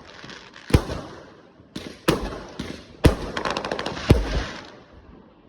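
Fireworks exploding: four sharp bangs about a second apart, each followed by a fading crackle and echo, with a quick run of small crackling pops after the third.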